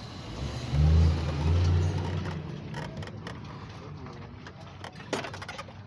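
An engine runs louder for about two seconds with a low hum, then fades back. A sharp click comes near the end.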